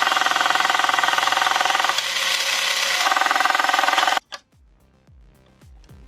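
Small electric motor and plastic gears of a Tomy Turnin' Turbo dashboard racing toy running with the case opened, a fast buzzing whirr that dips briefly about two seconds in, then cuts off suddenly about four seconds in. Faint scattered musical tones follow.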